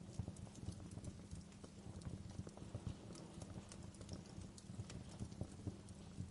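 Wood fire crackling in a fireplace: irregular pops and snaps, some sharper than others, over a steady low rumble.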